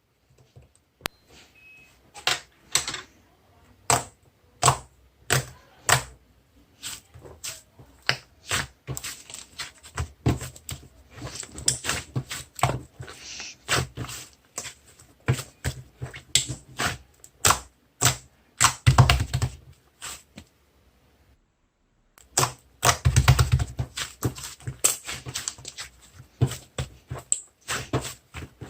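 Mixed chocolate slime being worked by hand, giving a long run of irregular sharp clicks and pops, several a second. It pauses for about a second and a half about two-thirds of the way through, then comes back as a fast, dense run of pops.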